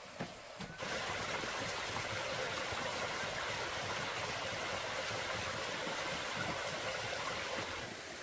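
A few light knocks, then a steady rush of running water that starts suddenly about a second in and stops suddenly near the end.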